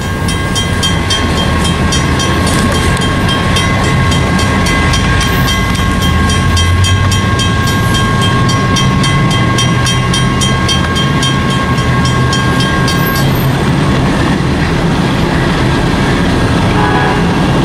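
Amtrak train led by a P42 diesel locomotive pulling away with a steady low rumble. A bell rings rapidly and evenly over it, then stops about 13 seconds in.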